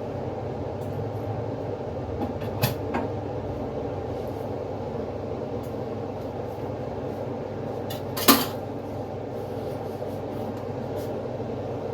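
A steady mechanical hum runs throughout. Two sharp knocks cut through it: a light one under a third of the way in and a louder one about two-thirds through, like a glass jar or its lid being handled on a counter.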